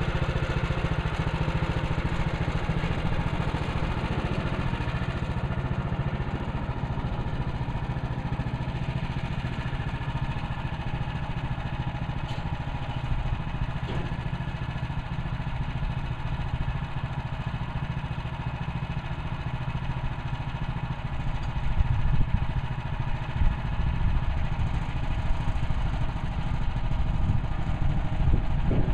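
Portable bandsaw sawmill's gas engine running steadily. From about three-quarters of the way in it turns rougher and uneven, with irregular louder surges.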